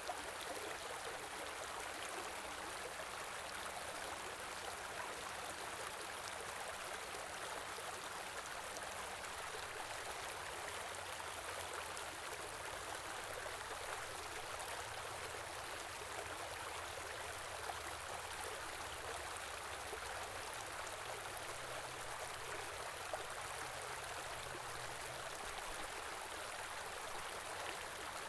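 Small river flowing over stones: a steady rushing and babbling of water.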